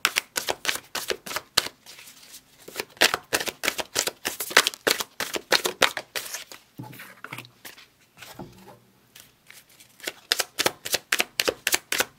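A deck of oracle cards being shuffled by hand: quick runs of card-edge flicks, thinning out and quieter for a few seconds past the middle, then fast again near the end.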